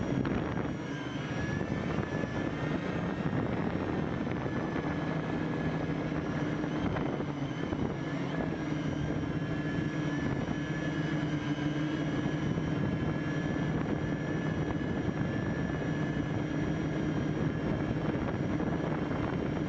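A homemade quadcopter's electric motors and propellers whining steadily in flight, heard up close from a camera strapped beneath it, with a rushing of air over the whine. The motor pitch wavers slightly as the craft holds and adjusts its flight.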